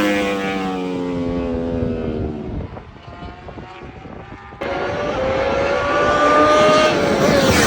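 1000cc sportbike exhaust: the engine note falls in pitch and fades over the first few seconds, then, after an abrupt cut about four and a half seconds in, it holds a high, slightly rising note at high revs and drops in pitch near the end.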